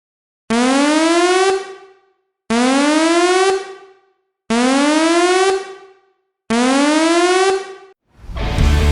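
A synthesized sound effect: a buzzy tone that rises slightly in pitch, about a second long, played four times two seconds apart. Electric guitar music starts near the end.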